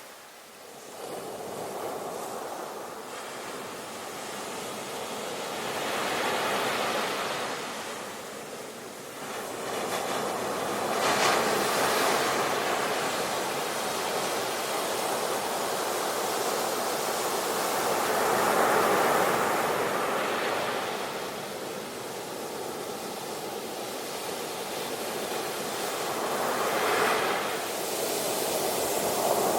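Sea waves breaking and washing in, a steady rush of surf that swells and eases as each wave comes in, with several waves cresting several seconds apart.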